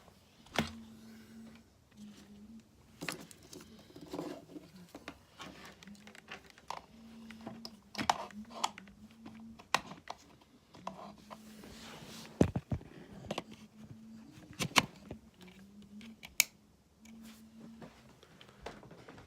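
Rustling and handling noises with many sharp clicks and knocks scattered through, the loudest a little past halfway, over a faint low hum that comes and goes.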